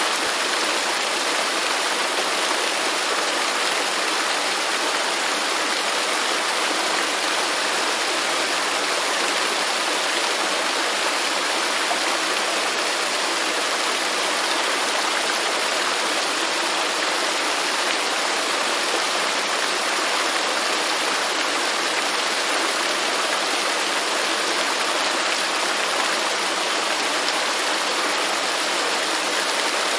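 Waterfall: water falling and rushing, a steady, even hiss with little low rumble.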